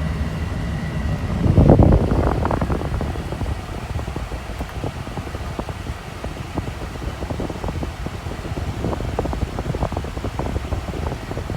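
Truck cab's air-conditioning blower running steadily over the low hum of the idling engine. There is a louder whoosh about two seconds in and scattered light clicks through the second half.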